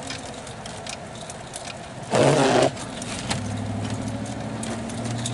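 Vehicle engine running, heard from inside the cabin while driving on snowy roads, with scattered light clicks and crunches. About two seconds in comes one loud, half-second blast, and from about three seconds in the engine hum grows stronger as the vehicle picks up.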